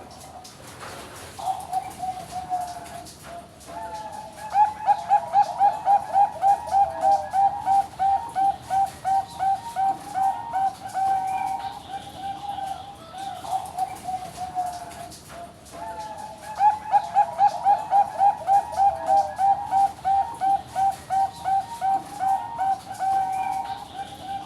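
Zebra dove (Bangkok-type perkutut) singing: two long bouts of rapidly repeated coos, about three notes a second, each bout opening with a slurred note and starting loud, then fading.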